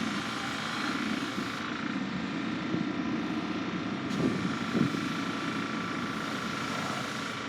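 Electric train running past the crossing: steady running noise with a steady high whine and a few brief knocks from the wheels.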